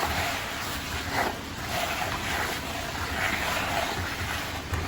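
Hands stirring dry fish-feed pellets in a container: a rustling, shifting noise that swells and eases several times.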